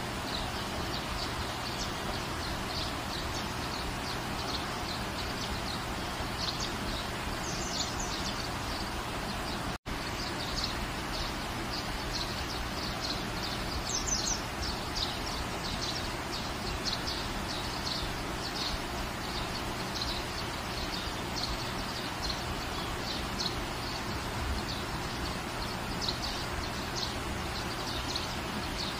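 Steady rain falling, with small birds chirping over it again and again. The sound drops out for an instant about ten seconds in.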